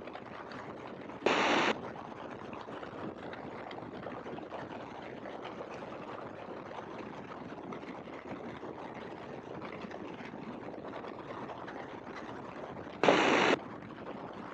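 Great Lakes open-cockpit biplane in flight heard through the headset intercom: a steady, muffled drone of engine and wind. Two short bursts of hissing noise break in, one about a second in and one near the end.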